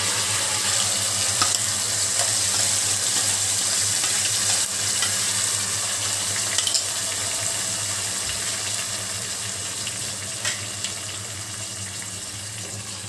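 Wet raw masala paste sizzling loudly as it hits hot mustard oil in a kadhai, the sizzle slowly dying down.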